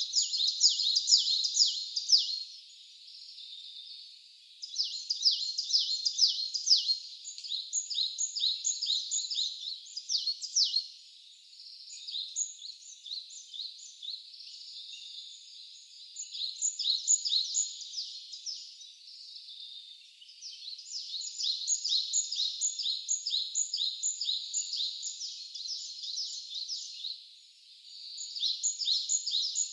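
Small songbirds singing long, high-pitched phrases of rapid trilled notes, each phrase lasting a few seconds with short pauses between.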